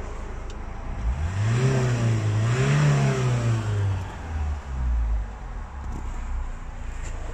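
Renault Grand Modus's 1.5 dCi four-cylinder turbodiesel revved and let fall back: the engine note climbs about a second in, peaks near three seconds and sinks back to idle by about five seconds.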